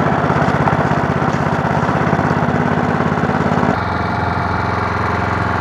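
A motor or small engine running steadily with a rhythmic pulse, starting and stopping abruptly. A little more than halfway through its tone changes and it gets slightly quieter.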